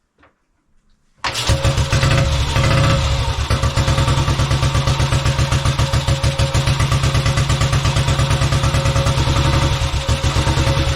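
1928 Velocette KNS 350cc overhead-cam single-cylinder engine catching on a kick about a second in and then running loud with a rapid, even beat on a barely opened throttle.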